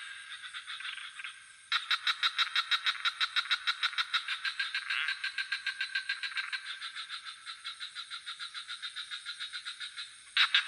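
Frogs calling at night in a rapid, evenly pulsed series of about six pulses a second. The calls start abruptly louder about two seconds in, ease off after about six seconds, and jump louder again near the end.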